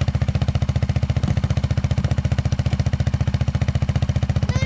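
Polaris RZR side-by-side's engine running at a steady speed, an even, rapid pulsing that holds the same rate throughout.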